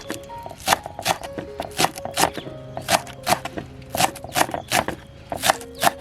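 Knife chopping on a cutting board, sharp strokes at an uneven pace of about two to three a second, over background music.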